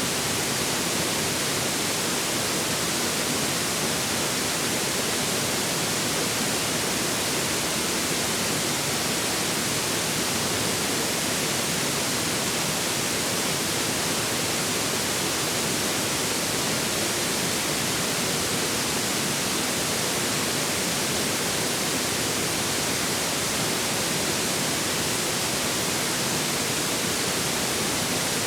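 Steady rushing of a flowing stream, an even hiss with no changes.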